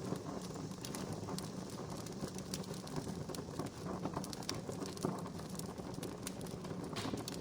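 Wood fire burning with steady crackling and scattered sharper pops.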